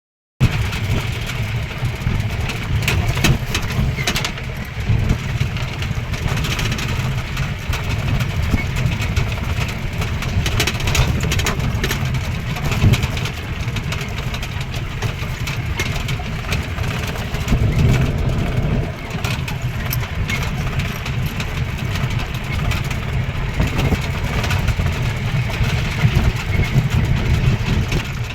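A safari vehicle's engine running steadily, with a heavy low rumble and scattered rattles and clicks.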